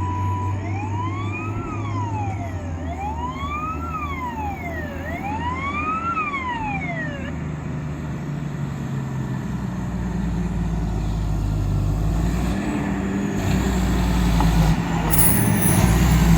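An electronic fire-truck siren wails through three rise-and-fall cycles, then stops about seven seconds in. The low diesel rumble of the approaching fire engine, a Detroit Diesel 8V71, continues underneath and grows louder near the end.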